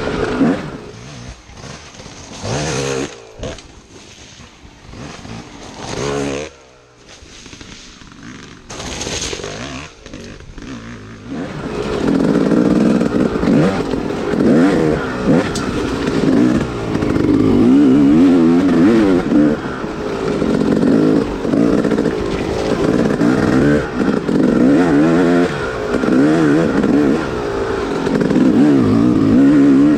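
Yamaha dirt bike engine revving in a few short bursts with quieter gaps between them. From about twelve seconds in it runs loud and without a break, its pitch rising and falling with the throttle as the bike is ridden along the trail.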